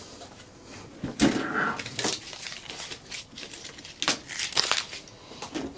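Handling noise: scattered knocks, clicks and rustling as a piece of scrap electronic equipment is moved about and handled.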